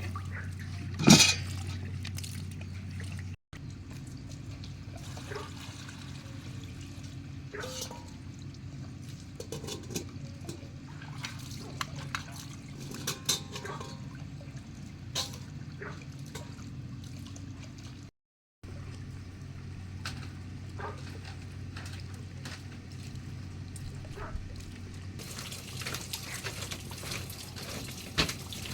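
Water trickling and dripping, with scattered light clicks and knocks.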